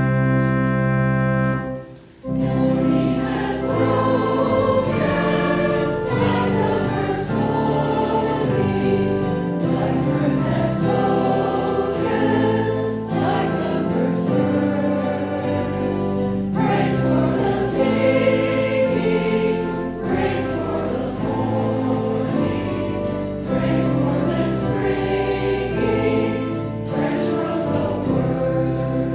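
A hymn sung by many voices with organ accompaniment. A held organ chord breaks off about two seconds in, and the singing begins right after.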